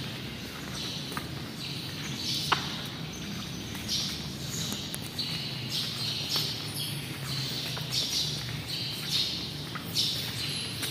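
Small birds chirping over and over, short high calls several times a second, over a steady low hum. A single sharp click comes about two and a half seconds in.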